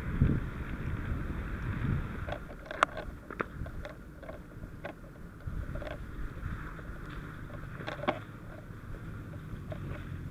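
Fire engine's motor running steadily at the scene, with scattered sharp clanks and knocks of firefighting gear being handled and rustling on the microphone near the start.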